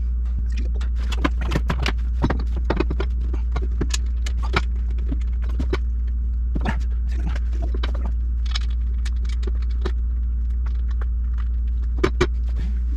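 Irregular metallic clinks and taps of bolts and tools against a steel exhaust header as it is positioned and bolted onto the engine block, over a steady low hum.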